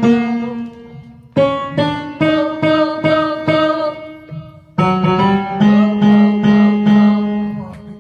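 Piano playing repeated chords, about two or three strikes a second, in short phrases with brief pauses, as accompaniment for vocal exercises.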